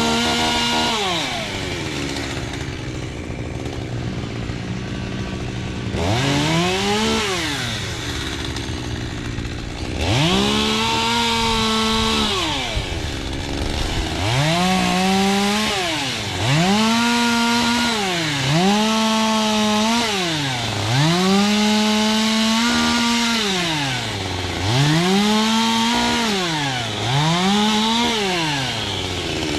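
Chainsaw cutting wood, revved to full throttle and dropped back to idle over and over: about nine bursts of a second or two each, the engine note rising, holding, then falling.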